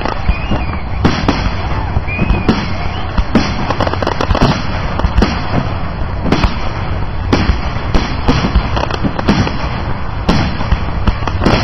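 Fireworks display: loud shell bursts going off about once a second in an irregular run, over a continuous crackle.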